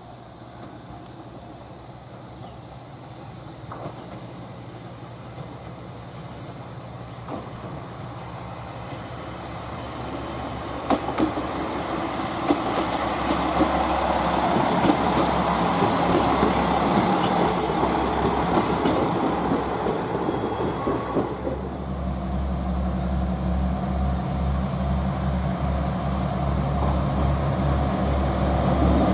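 A train drawing near on the rails, its running noise growing steadily louder, with a few sharp clicks partway through and a steady low hum from about two-thirds of the way in.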